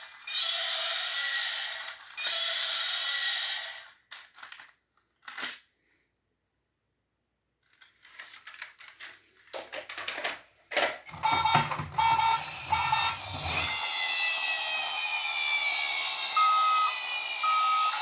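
Battery-powered toy's electronic sounds. Three repeated bursts are followed by a few clicks and a short pause. Then comes a beeping tone over a motor whir, and from about halfway on a toy siren wails with falling sweeps and short beeps.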